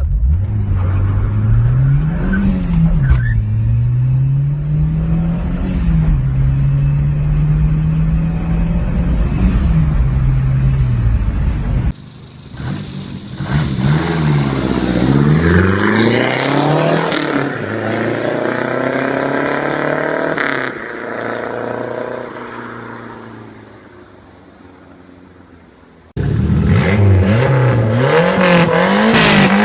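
Turbocharged four-cylinder Renault 5 engine revved repeatedly, its pitch rising and falling with each blip. It comes in three separate cuts, about twelve seconds in and again near the end. In the middle cut the engine sound dies away before the last cut comes in loud.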